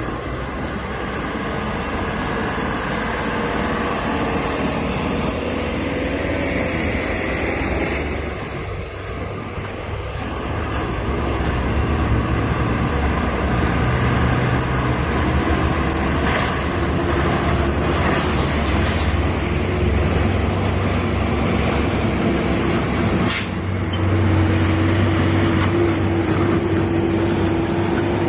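Heavy vehicle engine running with road noise, growing louder about twelve seconds in.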